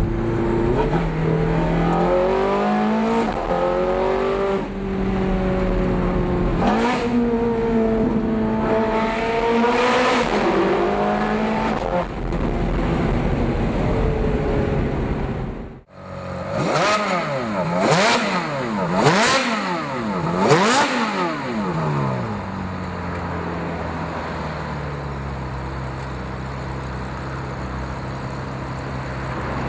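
Ferrari F430 Scuderia's V8 through Fab Speed headers and 200-cell high-flow cats with an EVOMS tune. For the first half it runs at rising and falling revs. After a sudden cut, it gives four sharp throttle blips, then settles to a steady idle.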